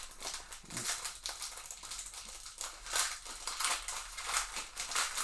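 Plastic card-pack wrapper crinkling and rustling as a trading card pack is torn open and handled, in a quick run of short scratchy rustles.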